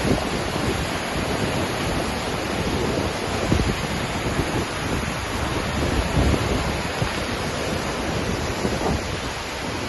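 Waterfall roaring steadily, with gusts of wind buffeting the microphone as low rumbling thumps.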